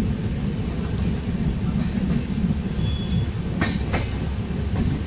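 Train running along the track, heard from inside a moving carriage: a steady low rumble, with two sharp clicks a little over three and a half seconds in.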